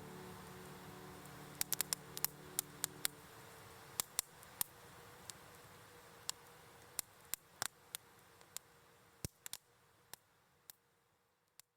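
Wood campfire crackling, with irregular sharp pops over a soft hiss, fading out near the end. The last held notes of background music die away in the first few seconds.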